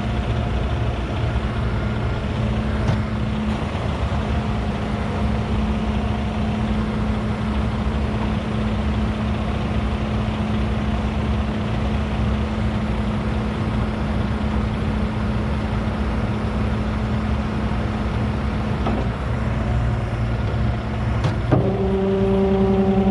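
Heavy diesel truck engine idling steadily. Near the end a sharp click, then a louder, higher pitched drone starts up.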